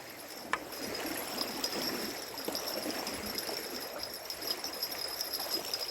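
Small waves lapping and trickling against the bank in an irregular patter, with one sharp click about half a second in.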